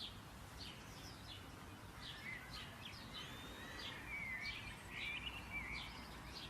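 Songbirds chirping, with repeated short high chirps and a warbling song in the middle, over a steady background hiss and low rumble.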